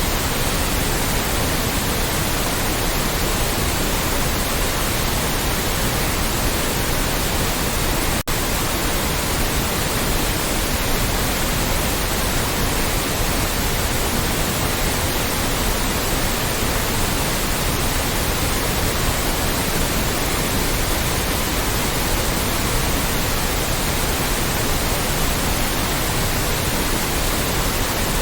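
Loud, steady white noise, an even hiss spread across all pitches, with a momentary dip about eight seconds in.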